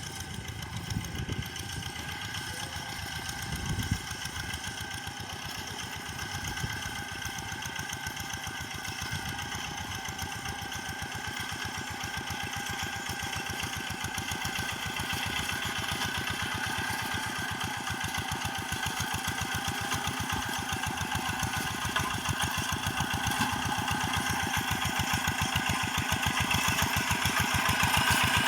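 Paddy-field tractor engine running steadily with an even firing pulse, growing gradually louder toward the end.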